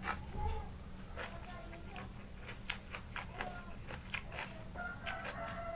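Close-up eating sounds: chewing and lip smacking with a string of sharp, irregular mouth clicks.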